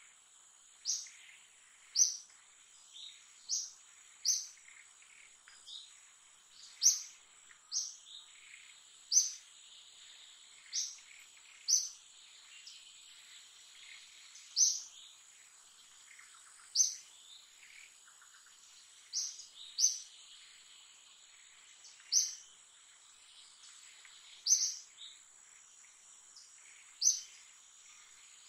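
A bird calling in short, sharp high chirps, one every one to two and a half seconds, over a steady high-pitched insect buzz.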